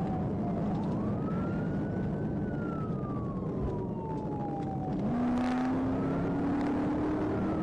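Police siren in a slow wail, its pitch rising and falling over several seconds, over steady engine and road noise of a vehicle in a pursuit. About five seconds in a low engine tone starts and climbs steadily, as if the vehicle is speeding up.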